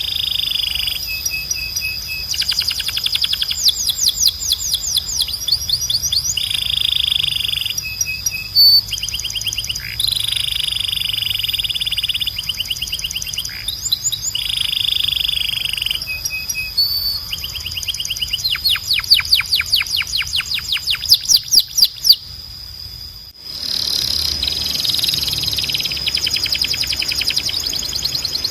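Domestic canary singing: fast trills and rolls of rapidly repeated high notes, broken by a short gap about two-thirds of the way through before the song starts again.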